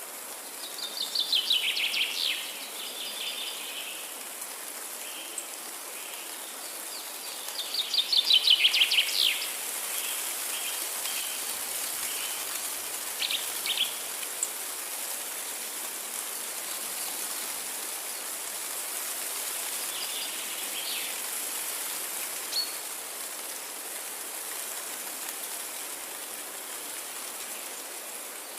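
Forest ambience with a songbird singing twice, about a second in and again about eight seconds in, each song a rapid trill of notes falling in pitch over about a second. Fainter short bird calls follow later, over a steady high hiss.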